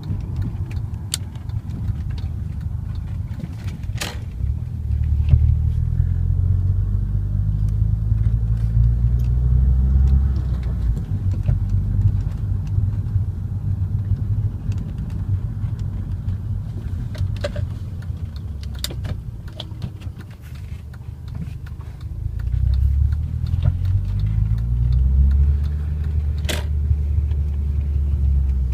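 Audi TT 225's turbocharged 1.8-litre four-cylinder on the road through a 3-inch turbo-back exhaust with no catalytic converter, giving a low, deep exhaust drone. It pulls up louder twice, about five seconds in and again past twenty seconds, and there are a few sharp clicks and rattles.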